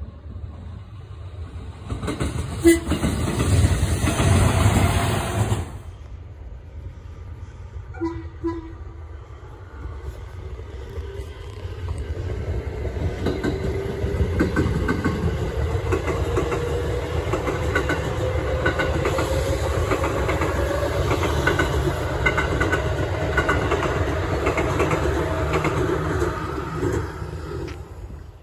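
Japanese electric commuter trains passing: wheels clattering over rail joints, short horn toots a few seconds in and twice about eight seconds in, then a motor whine that rises slowly in pitch as a train gathers speed.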